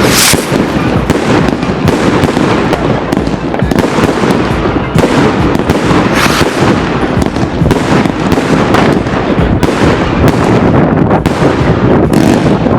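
Fireworks going off in a dense, continuous barrage of rapid bangs and crackling, with a few sharper cracks standing out.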